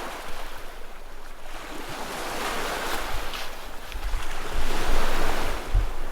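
Sea waves washing onto the shore, the surf swelling twice, with wind buffeting the microphone in low rumbles.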